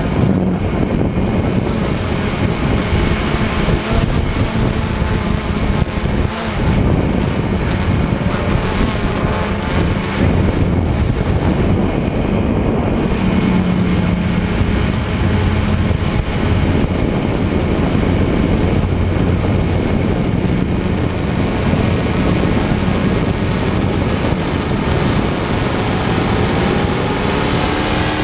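Pulling tractor's engine running loud and steady under load through the whole pull, with wind noise on the microphone.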